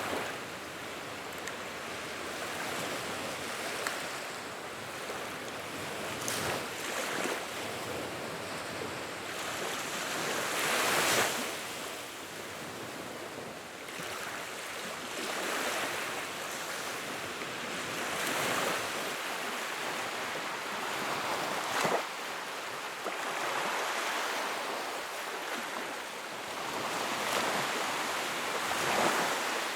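Wood fire in a fireplace crackling and hissing, swelling and easing every few seconds, with a few sharper pops, the loudest about 11 and 22 seconds in.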